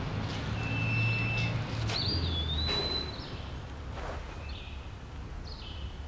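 Birds calling in short high whistles, some held steady for about a second, over a low steady rumble that drops away about halfway through, with a few soft knocks.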